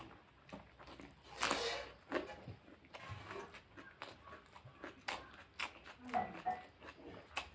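Close-miked eating sounds: chewing and wet smacking of the mouth on pork curry, in many short clicks, with one louder noisy burst about a second and a half in.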